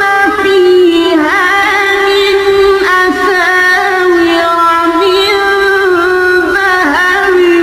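A single high voice chanting melodic Arabic recitation. It holds long sustained notes and breaks into quick wavering ornaments several times, with no pause.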